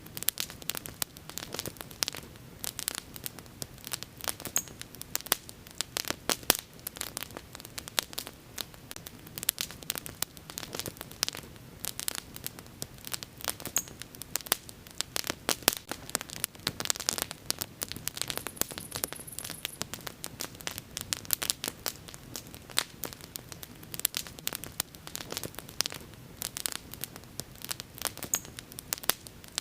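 Wood fire crackling and popping: dense, irregular snaps and clicks over a low steady hiss of burning.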